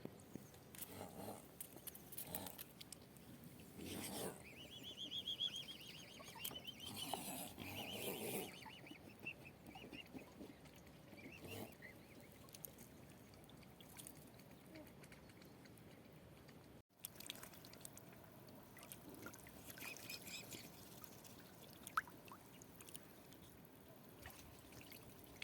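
Faint waterfowl calls, with a wavering, high call about four seconds in that lasts a few seconds, then quieter scattered sounds.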